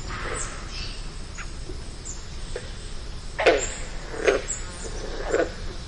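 A bird calling outdoors in short harsh calls, three about a second apart in the second half, with fainter chirps earlier, over a steady low rumble.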